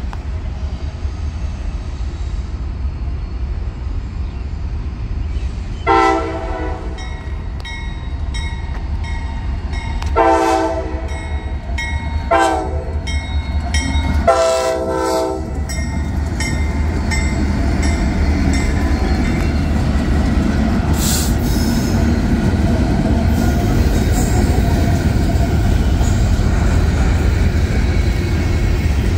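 Norfolk Southern diesel locomotive horn sounding the grade-crossing signal, long, long, short, long, starting about six seconds in, over a crossing bell dinging steadily. The locomotives and loaded trash cars then roll past with a steady low rumble and wheel clatter.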